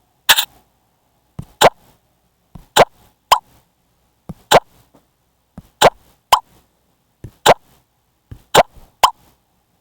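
A series of short plop sounds, one or two about every second, each a sharp click that drops quickly in pitch.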